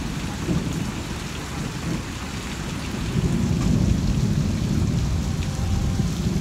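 Heavy tropical-storm rain falling, with a low rumble that swells from about three seconds in.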